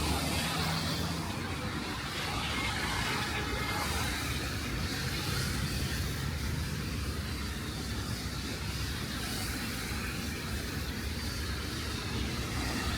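Car traffic on a rain-wet city street: a steady wash of tyre noise on wet road with a low engine rumble underneath.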